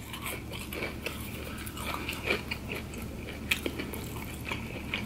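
Close-miked chewing of breaded chicken nuggets dipped in cheese sauce: soft crunches and wet mouth sounds, with scattered sharp clicks.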